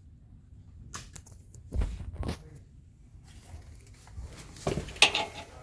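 Short knocks and rattles from tools and bolt hardware being handled, in a few clusters, loudest about two seconds in and again near the end.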